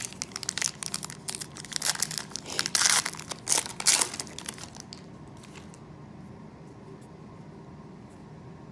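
Wrapper of a trading-card pack being torn open and crinkled, a dense crackling that is loudest about three to four seconds in and stops about five seconds in.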